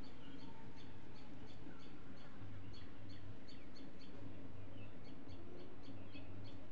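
A bird chirping in short high notes, about three a second, over a steady low hum.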